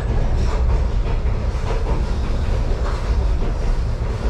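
Diesel locomotive rolling along the track at about 20 mph, heard from inside the cab: a steady low engine rumble with the irregular clack of wheels over rail joints.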